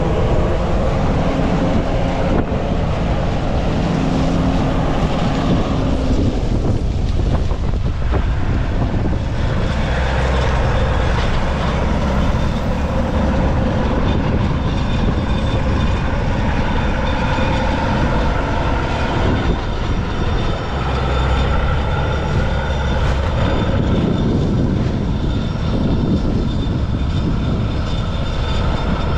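1977 Gleaner L2 combine harvester running steadily under load, its engine and threshing machinery making a continuous drone with shifting tonal whines.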